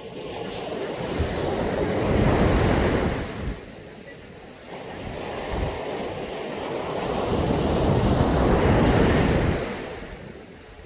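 Caribbean Sea surf: two waves breaking and washing up a beach. The first swells up and cuts off sharply about three and a half seconds in; the second builds more slowly and peaks near the end before fading.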